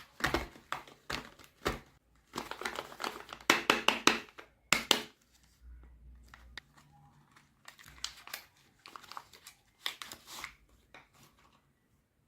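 Irregular crinkling and rustling with sharp clicks, like something being handled at close range. It is busiest in the first few seconds, then comes in sparser bursts.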